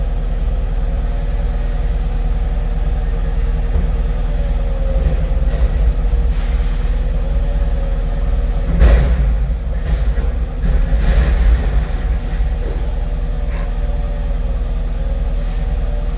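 Cat 259 skid steer's diesel engine running steadily under way, with a slightly wavering hydraulic whine over the rumble. A loud clunk comes about nine seconds in, followed by a couple of seconds of rougher rumbling as the load of concrete chunks is handled.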